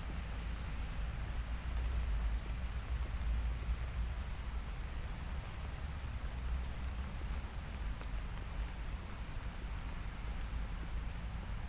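Steady light rain falling on a city street, an even hiss with faint drops, over a low rumble that swells a few seconds in.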